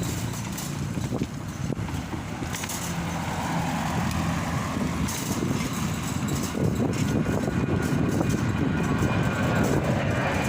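Steady motor-vehicle engine and road noise, growing gradually louder through the second half.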